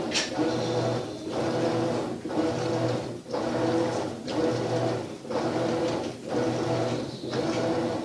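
Maytag washing machine agitating a load: the motor hums in strokes about a second long, dropping out briefly between them as the wash action reverses. A short hiss comes right at the start.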